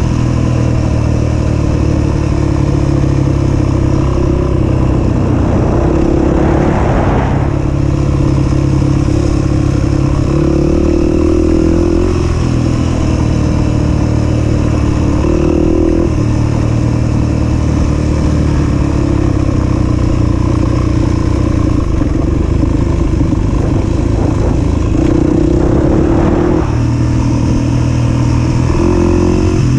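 A 250 cc single-cylinder four-stroke dirt bike engine running hard while riding, its pitch stepping up and down every few seconds with throttle and gear changes. There is a rush of noise for a moment about 7 seconds in and again near the end.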